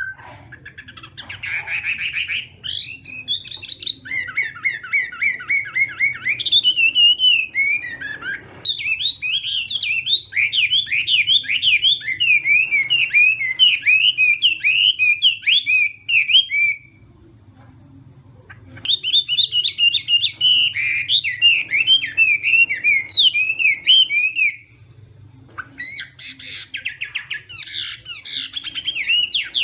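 Chinese hwamei singing: long runs of rapid, varied whistled phrases, broken by two short pauses, the first a little past halfway and the second about a second long some seconds later.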